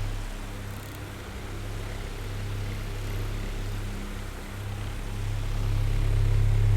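Oscillating electric fan running: a steady low motor hum under an airy whir of the blades. The hum drops about a second in and swells back near the end as the fan head turns away and back.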